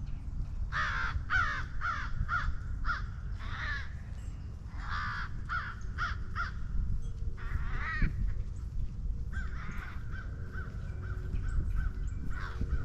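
Crows cawing repeatedly, a quick series of harsh caws followed by a few more spaced out, over a steady low rumble.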